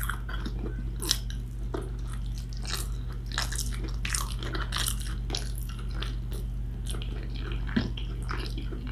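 Close-miked eating: a person chewing and biting food with wet mouth clicks and small crackles coming in a quick, irregular series, over a steady low hum.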